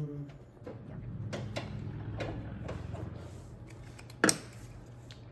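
Light metal clicks over a low steady hum, then one sharp metallic clank a little past four seconds.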